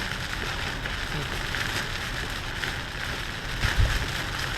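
Heavy rain drumming on a moving car, heard from inside the cabin as a steady hiss with road noise, and a single low thump a little before the end.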